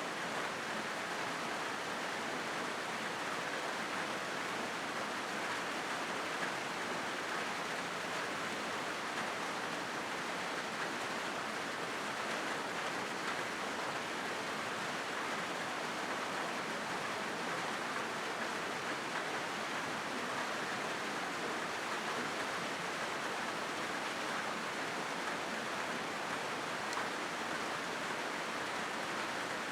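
Rain falling steadily on a corrugated metal roof, an even hiss that does not let up.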